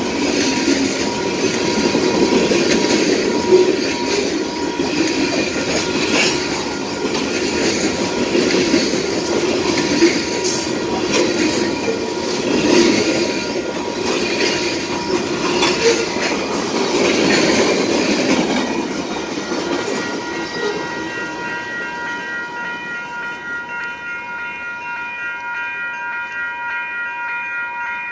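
Canadian Pacific freight cars rolling past close by, their wheels rattling and clicking over the rails. A level-crossing bell rings throughout and stands out clearly in the last several seconds as the train noise falls away.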